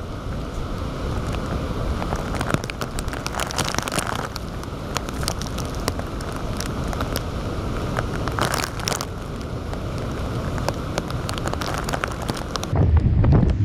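Heavy typhoon rain pattering hard on a nearby surface: a dense crackle of drop impacts over a steady hiss, with a few louder spatters about a third of the way in and again past the middle.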